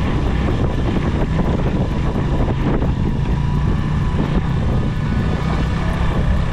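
Suzuki 150 cc single-cylinder motorcycle engine running steadily under load, climbing a rough off-road track.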